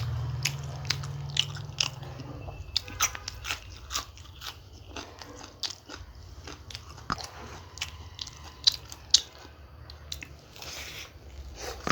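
Close-miked biting and chewing of a fried samosa, its crisp pastry crunching in a rapid, irregular series of sharp crackles, over a steady low hum.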